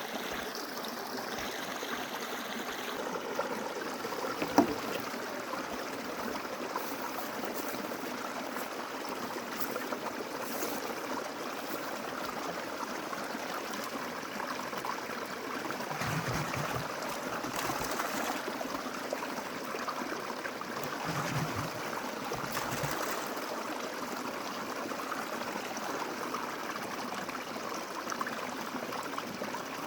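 Snowmelt-fed mountain stream running steadily over stones.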